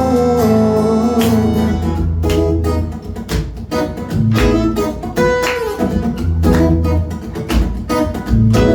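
Instrumental break in a live acoustic pop song: acoustic guitar strummed in a steady rhythm over a low bass line.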